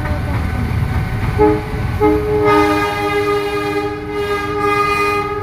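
Train horn sounding a short blast, then a long held blast of about three seconds, over the low rumble of a train.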